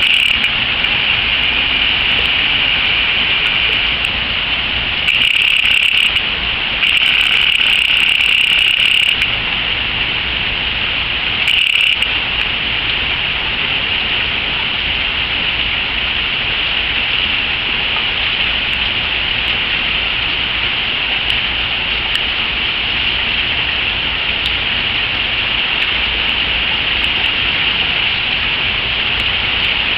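Steady rain falling, a dense even hiss with a few brief louder surges of harder rain in the first dozen seconds.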